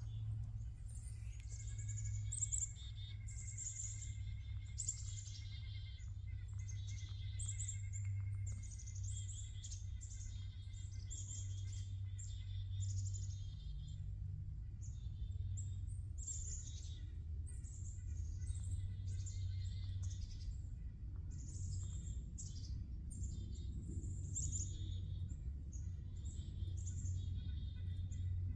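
Several songbirds singing, short phrases repeating one after another, over a steady low rumble.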